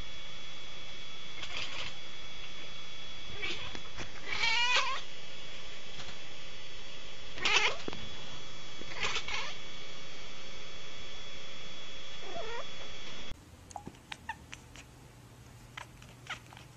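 A cat meowing over and over: about six short calls, one near the middle wavering in pitch, over a steady hiss. After a sudden drop in level about thirteen seconds in, only a few faint clicks.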